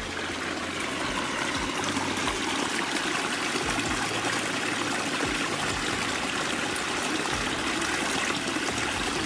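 Stream water pouring over rocks, a steady rushing flow.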